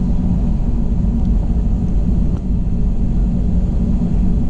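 Steady low rumble inside the cabin of an Airbus A321 from its engines and the taxiing airframe, with a brief dip about two and a half seconds in.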